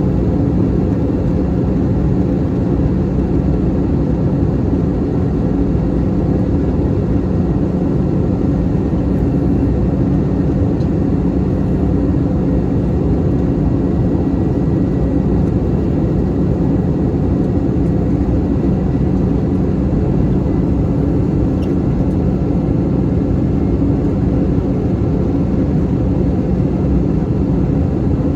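Steady cabin drone of an Airbus A321-211 in flight, heard from a window seat: engine and airflow noise, with a few steady low hums running through it.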